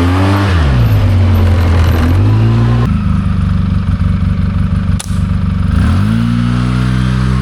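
ATV engine running under load, its pitch rising and falling as the throttle is opened and eased off. A sharp click comes about five seconds in.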